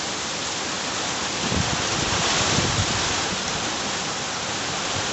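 Heavy rain pouring down in a wind storm, a steady hiss that swells slightly about halfway through.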